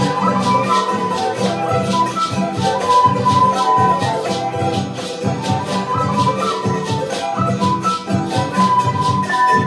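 Instrumental Andean folk music: a charango strummed in a steady, fast rhythm under a melody of short, quick notes.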